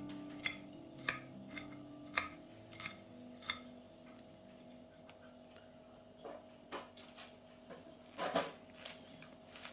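Metal cutlery clinking against a dish. There is a light, ringing tap about every half second for the first few seconds, then a few scattered taps with a short cluster about eight seconds in.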